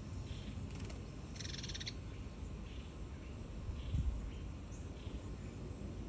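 Small wild birds calling, with short high notes scattered throughout and a half-second buzzy rattle about one and a half seconds in, over a low outdoor rumble. A low thump about four seconds in is the loudest sound.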